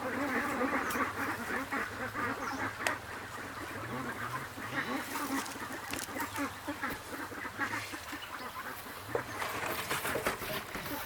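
A flock of ducks quacking continuously, many calls overlapping.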